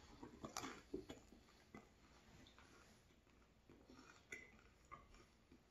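Faint close-mouthed chewing of a soft pastry, with small wet mouth clicks mostly in the first couple of seconds.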